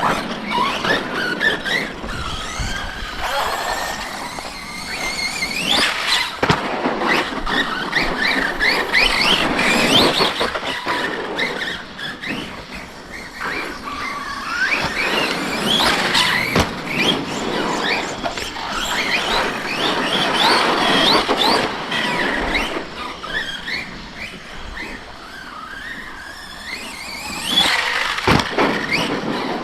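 Electric RC monster trucks' motors whining, the pitch rising and falling again and again as the throttle is worked, with a few sharp knocks.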